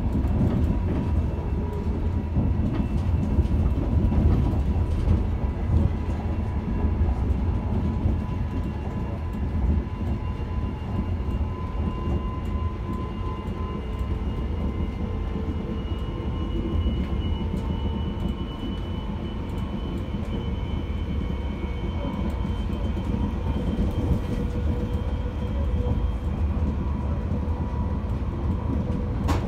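Passenger train running along the line, heard from inside the carriage: a steady low rumble of wheels on rail, with a faint high whine that rises gently in pitch through the middle.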